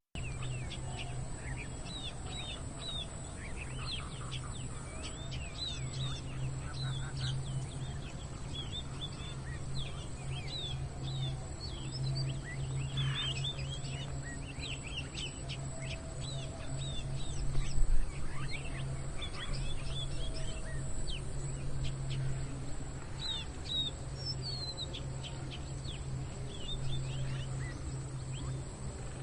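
Many small birds chirping and twittering in quick, overlapping calls, over a steady low hum. A brief louder noise stands out about eighteen seconds in.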